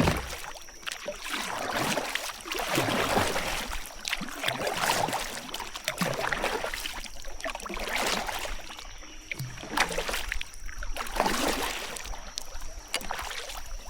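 Kayak paddle strokes in the water, a swish and splash every second or two.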